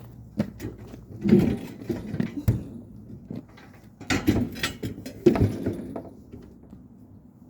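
Knocks, clunks and scraping from a vintage refrigerator being handled and worked on, in three flurries: about a second in, about four seconds in, and about five seconds in.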